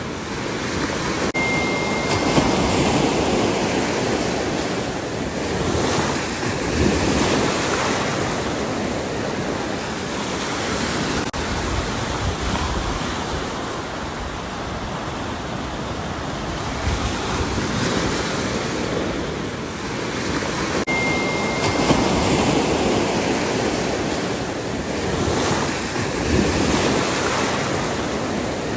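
Ocean surf breaking and washing ashore, a continuous rushing that swells and eases every few seconds.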